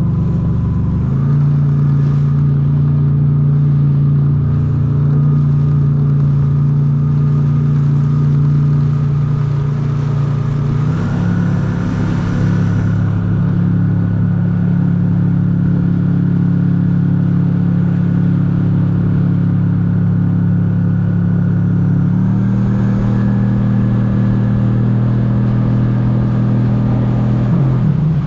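Rental jet ski's engine running at speed, a steady drone whose pitch steps up and down a few times as the throttle changes. The rider finds this ski slower than others he has ridden.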